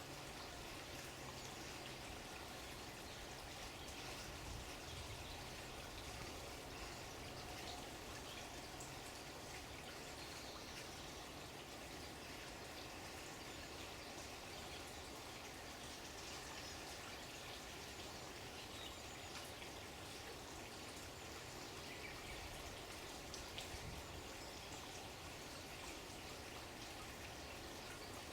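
Water flowing steadily, with faint bird calls over it.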